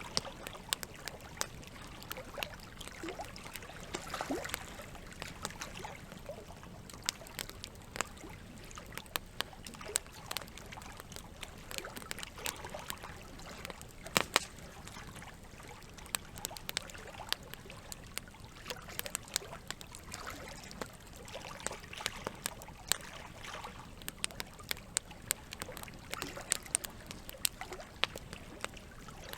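Campfire crackling with many sharp pops, the loudest about halfway through, over a steady sound of water.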